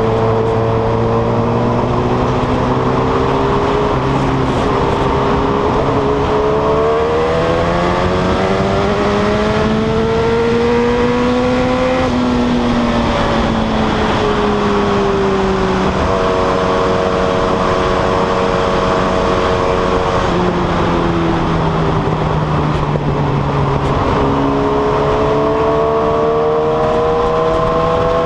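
Yamaha R1 RN09's inline-four engine running with no exhaust silencer, heard from on the moving bike over steady wind rush. The engine note climbs as it pulls for several seconds, drops back around the middle, holds steady, steps down again, then climbs once more near the end.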